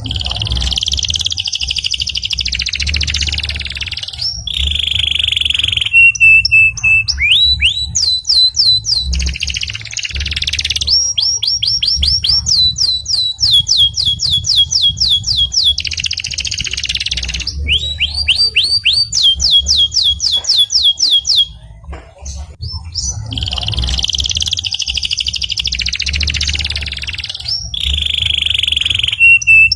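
Canary singing a long, loud song: dense rapid trills alternating with runs of quick rising whistles repeated several times a second, broken by short held steady notes, with a brief pause about two-thirds of the way through.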